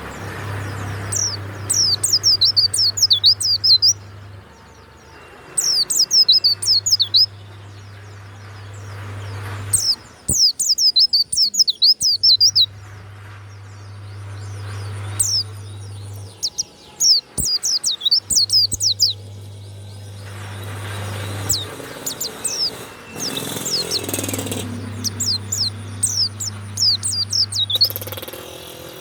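White-eye (pleci) singing in repeated bursts of rapid, high twittering notes, each burst lasting a few seconds with short pauses between. A low hum comes and goes underneath.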